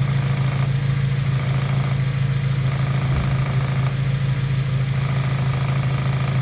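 Honda DC5 Integra Type R's engine running at a steady speed: a loud, even low drone with no revving.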